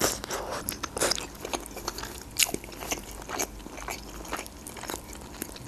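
Close-miked chewing of a mouthful of stuffed bell pepper dolma, with irregular mouth clicks and smacks.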